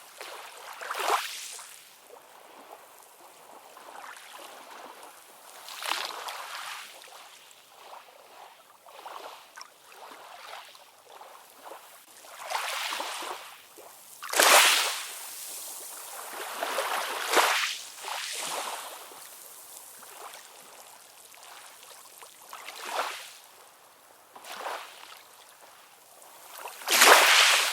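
Ocean waves washing in, an irregular series of hissing surges every few seconds over a softer steady wash, with little deep rumble.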